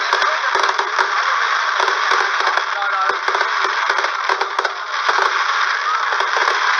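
Fireworks going off in a dense, continuous barrage, a steady harsh crackling rush with many small cracks and pops throughout, sounding thin and distorted.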